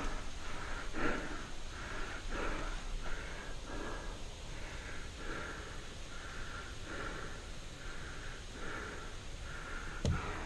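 A paintball player's quick, even breathing close to the microphone, a breath about every three-quarters of a second. A single sharp click comes near the end.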